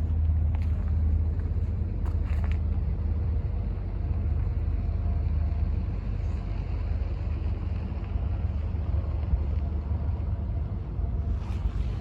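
Heavy-duty diesel engine of a Western Star 4700 truck idling steadily.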